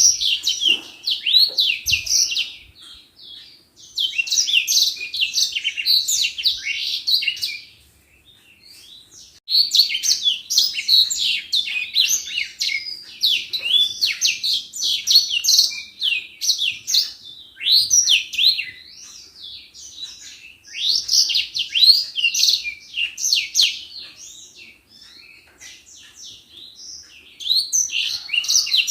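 Edelsanger (grey singing finch) singing: long, fast, high twittering phrases of rapidly changing notes, with brief pauses between phrases.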